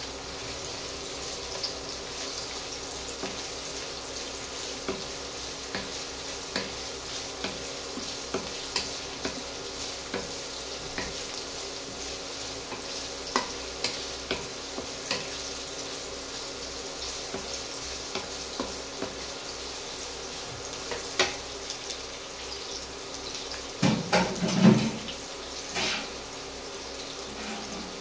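Sliced onions sizzling steadily in oil in a wok, with a wooden spatula scraping and tapping against the pan now and then. A brief louder clatter comes near the end.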